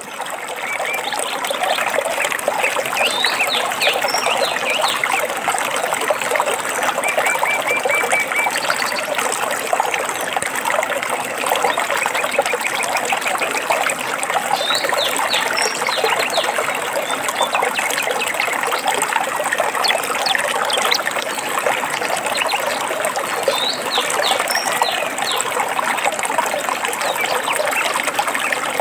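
Water trickling and splashing steadily in a small stream, with birds singing over it. The birdsong comes as short chirps that sweep down in pitch, in clusters a few times, and a brief run of quick repeated notes.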